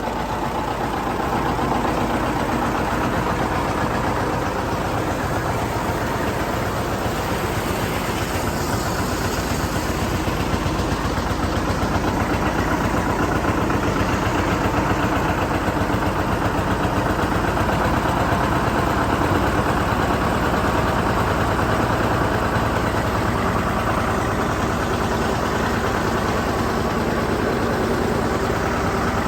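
John Deere 730 diesel tractor's two-cylinder engine running steadily, a little louder from about two seconds in.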